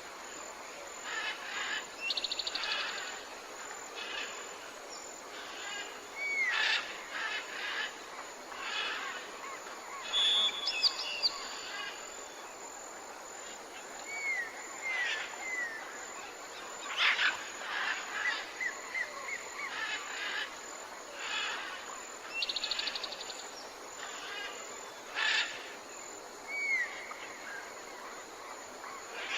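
Several birds calling and singing over a steady background hiss: repeated short down-slurred whistles, brief fast trills, and scattered chirps.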